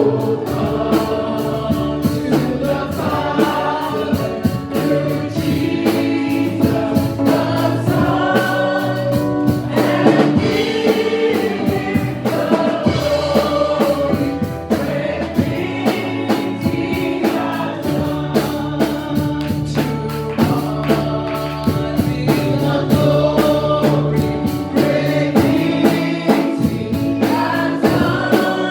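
Gospel choir singing a worship song with instrumental accompaniment and a steady beat.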